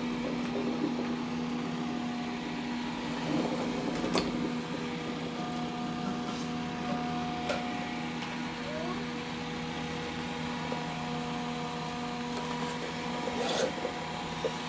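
Dreame D10 robot vacuum running with a steady motor hum and whine, with a few sharp clicks.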